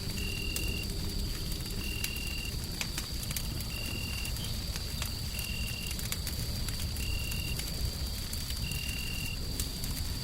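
Layered fireside ambience: a wood fire crackling in scattered sharp pops over a low, steady noisy rumble. A steady high tone runs throughout, and a short high chirp repeats evenly about every one and a half seconds.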